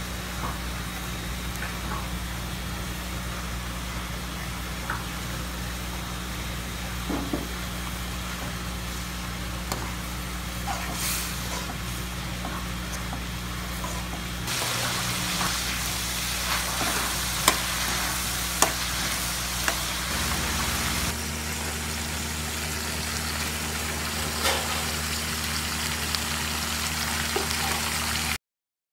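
Minced pork sizzling in a wok as a metal spatula stirs and scrapes it, with scattered clicks over a steady low hum. The sizzle grows louder about halfway through, as the garlic belacan paste is stirred in.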